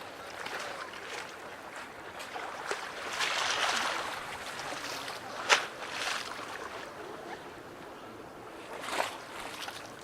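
Harbour waves lapping and splashing at the water's edge, swelling about three seconds in, with a sharp slap about five and a half seconds in and another near nine seconds.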